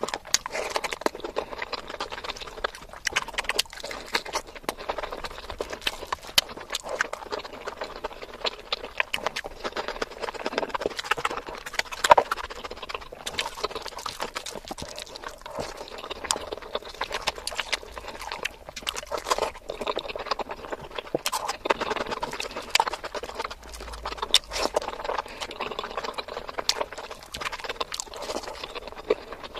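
Close-miked eating sounds: wet chewing, lip smacks and sharp mouth clicks from mouthfuls of biryani rice and chicken curry eaten by hand, coming irregularly and densely, with one louder click about twelve seconds in.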